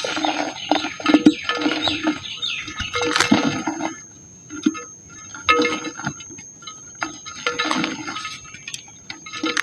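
Dry pink mud being crumbled by hand, dense crackling in bursts that come roughly every two seconds.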